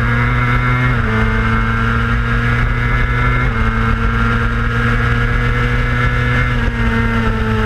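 Onboard sound of a 600cc racing motorcycle's engine running at fairly low, steady revs. The pitch steps down twice, about a second in and midway through, as it shifts up, and sinks slowly near the end as it slows.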